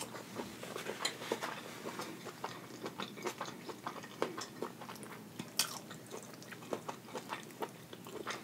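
Chewing of butter-sauced seafood: wet mouth sounds made of many short, irregular clicks, with a few louder ones now and then.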